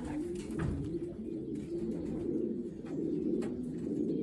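Many racing pigeons cooing at once in the loft, a dense overlapping murmur of low coos, with a few faint clicks.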